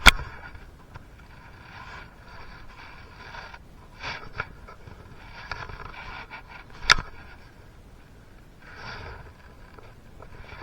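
Workshop handling sounds: parts and tools scraping and clinking, with a sharp click right at the start, smaller knocks about four seconds in and another sharp click about seven seconds in.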